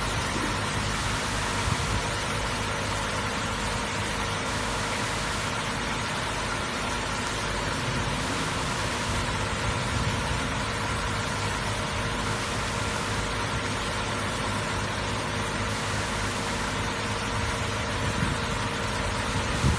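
Rollover truck wash machine running: a steady mechanical hum under a constant hiss, the higher hiss swelling and fading every few seconds.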